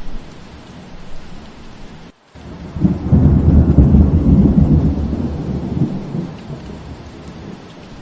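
Steady rain with a rumble of thunder that swells about three seconds in and fades away over the next few seconds. Just before the thunder the sound cuts out for a moment.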